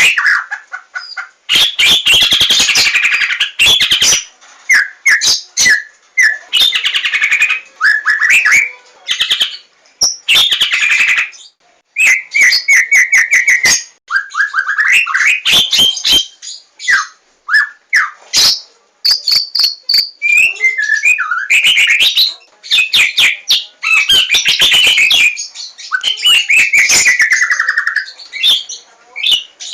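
White-rumped shama (Javan murai batu) singing a long, varied song of whistled phrases, pitch glides and fast runs of repeated notes, with only brief pauses between phrases.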